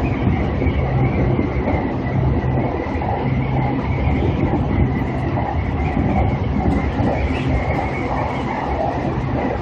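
Seibu Ikebukuro Line electric express train running at speed, heard from inside the lead car: a steady rumble of wheels on rail and running gear, with a faint steady high tone over it.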